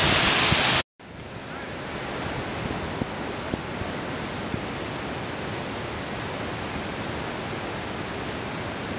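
Steady rushing of water pouring over a dam, a constant even noise. Just under a second in the sound drops out briefly at a cut and comes back quieter, with a few faint clicks.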